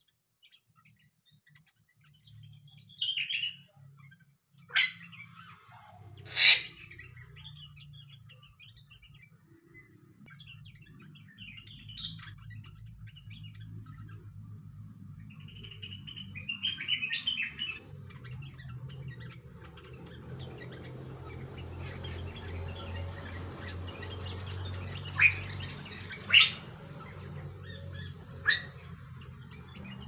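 Small birds calling: short chirps and twitters, with five sharp, loud single notes that stand out, two a few seconds in and three near the end, over a steady low hum.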